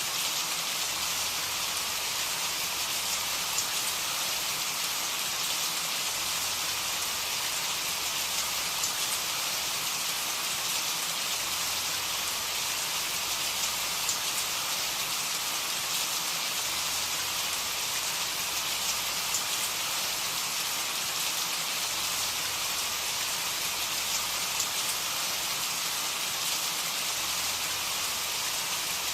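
Steady rain with drops pattering on a surface, an even hiss with scattered individual drop ticks.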